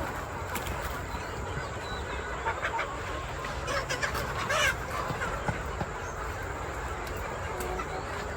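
Chickens clucking a few times, loudest near the middle, over a steady low rumble.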